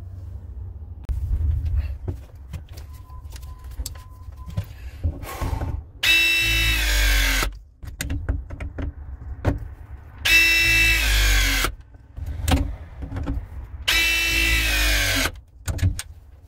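Battery-powered press tool crimping copper press fittings. It runs three press cycles, each a motor whine of about a second and a half that drops in pitch as the jaws close, with handling clicks and knocks between them.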